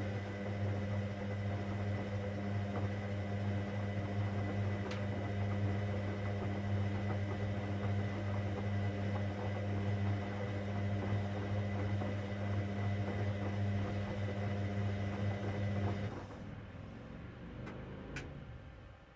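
Hoover Dynamic Next washing machine on its cotton 60 programme, running with a steady low hum that cuts off about sixteen seconds in. Two light clicks follow near the end.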